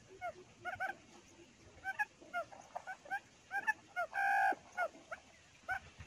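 Birds calling with many short, quick chirps that repeat throughout, and one louder, longer nasal call a little after four seconds in.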